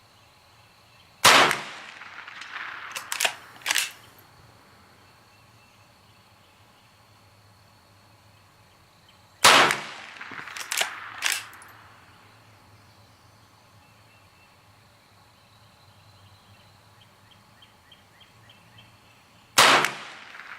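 Three shots from a Henry .22 lever-action carbine, about eight to ten seconds apart, each with a short echoing tail. After the first two shots, quick metallic clacks follow within a couple of seconds as the lever is worked to chamber the next round.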